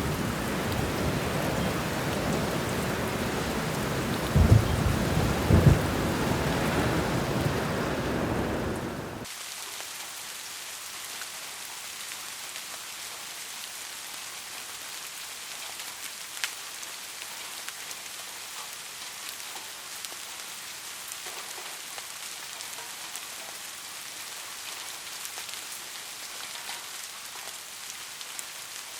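Heavy rain with rolling thunder, two sharp thunder cracks a little under halfway through the first ten seconds. About nine seconds in, the thunder and low rumble cut off abruptly, leaving steady, quieter rain pattering with scattered drips.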